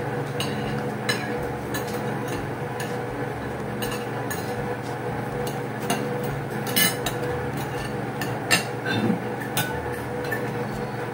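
Spoons and forks clinking against plates and a pot as people eat, a scattering of short light clicks every second or so over a steady low hum.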